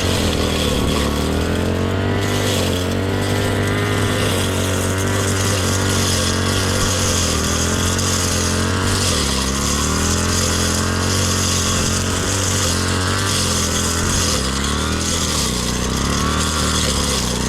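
Engine of a brush cutter (grass cutting machine) running steadily, its pitch drifting up and down slightly as it works.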